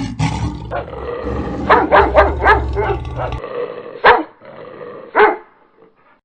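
A dog barking, a quick run of four or five barks about two seconds in, then single barks near four and five seconds. A low rumble underneath stops about halfway through.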